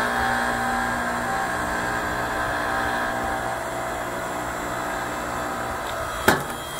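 Log splitter's motor running with a steady hum as it pushes through a dry firewood log, then one sharp crack about six seconds in as the wood splits apart.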